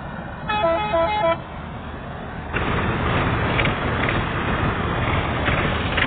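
A vehicle horn gives a short tune of stepped tones for about a second over a heavy engine running steadily. About two and a half seconds in, a louder rushing noise of the harvesting machinery sets in and carries on.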